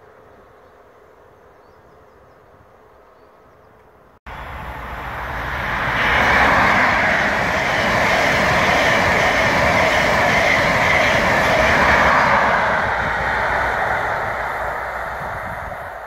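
Faint outdoor background, then an abrupt start about four seconds in to a passenger train passing close by at speed. Its wheel-on-rail noise builds over a couple of seconds, holds steady, and fades toward the end.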